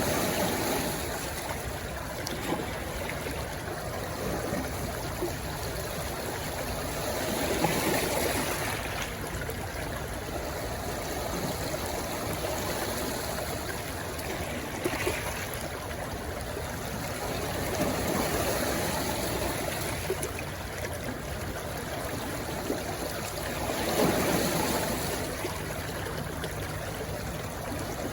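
Stream water rushing and gurgling over stones, a steady flow with gentle swells every several seconds, where it runs into the sea.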